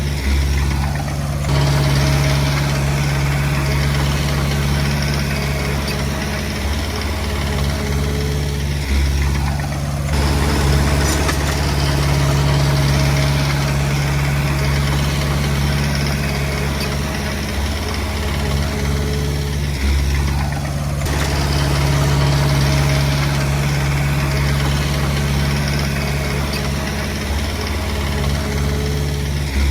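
Diesel engine of a Komatsu D20P bulldozer running steadily, its sound shifting in a cycle that repeats about every ten seconds.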